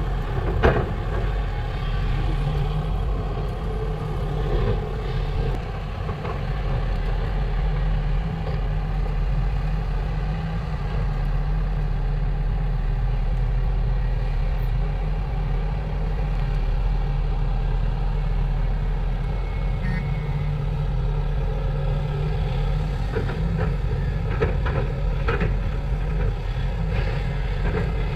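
Heavy excavator diesel engine running steadily, with a few sharp clanks about a second in and several more near the end.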